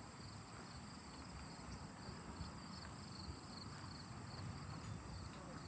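Insects trilling: one steady high-pitched trill and another pulsing rhythmically, several chirps a second, over a faint low rumble.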